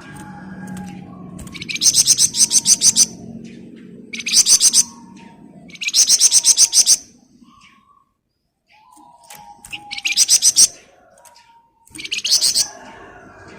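Flamboyan songbird giving rapid, tightly packed high trills ('ngebren rapat'): five bursts of fast repeated notes, each about half a second to a second long, separated by short pauses.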